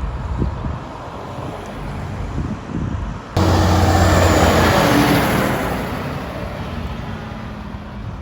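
A road-run vehicle, most likely a vintage tractor, running past. A low engine rumble comes first. A little over three seconds in, a much louder engine and road noise cut in suddenly, hold for about two seconds, then fade away as it passes.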